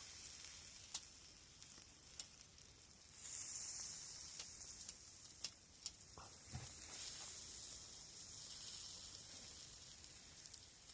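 Steak sizzling over a hot campfire, a faint steady hiss with scattered sharp pops; the sizzle swells for a couple of seconds about three seconds in.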